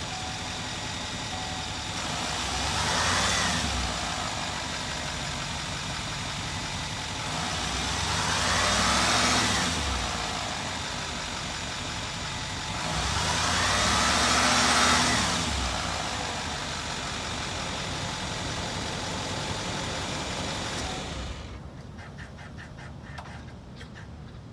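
A 2021 Chevrolet 4500 truck's engine idles and is revved three times, each rev rising and falling back to idle, the last two longer than the first. About 21 seconds in the engine stops, leaving faint ticking.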